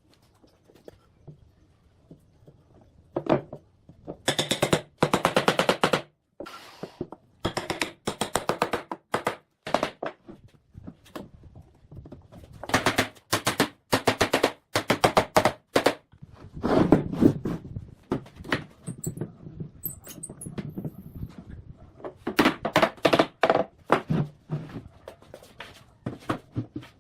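Bursts of rapid knocking, many sharp strikes a second, in runs of one to two seconds separated by short pauses.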